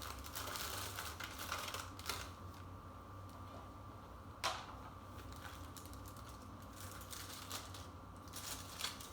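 Light clicks and rustles from a small potted plant being handled, with one sharper click about four and a half seconds in, over a steady low hum.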